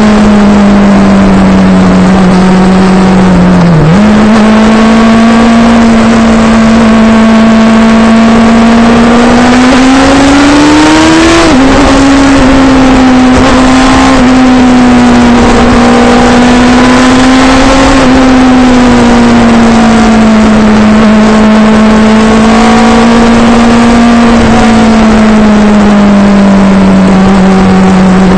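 Suzuki GSX-R sportbike's inline-four engine heard from on board while riding, over a constant rush of wind noise. Its note holds fairly steady, dips briefly about four seconds in, and rises over a couple of seconds before dropping sharply at an upshift about eleven seconds in.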